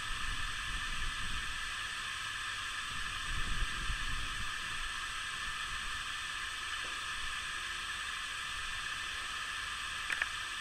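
Snowstorm ambience: a steady hiss with low, uneven wind rumbles on the microphone, strongest about three and a half seconds in. A couple of faint clicks come near the end.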